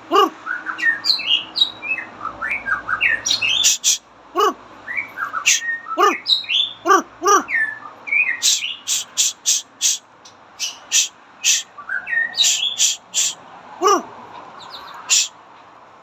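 A pet bird calling continuously, in a varied run of sharp high chirps and short whistled notes, broken by several lower squawks that each drop quickly in pitch.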